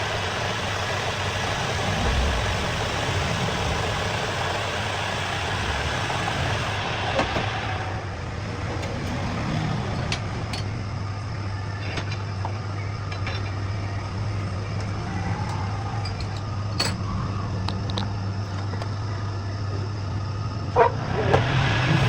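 An engine idling steadily with a low, even hum. Scattered light clicks from about ten seconds in, and two sharper knocks near the end.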